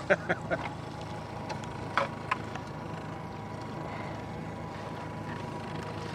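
Steady low hum of a boat motor, with a few sharp knocks in the first half-second and two more about two seconds in.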